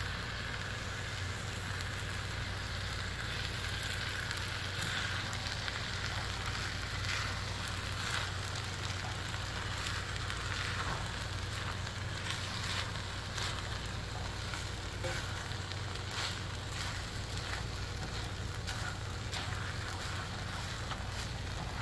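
Fried rice sizzling in a HexClad hybrid stainless-steel wok while a spatula stirs it, with short scrapes of the spatula on the pan here and there.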